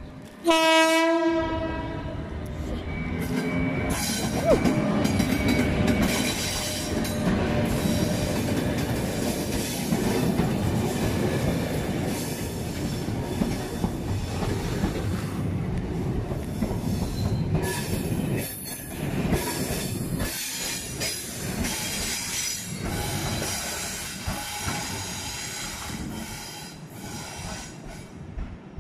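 A train horn sounds one short blast about half a second in. Then a locomotive-hauled Network Rail test train runs past, its wheels rumbling and clicking over the rail joints, with some wheel squeal.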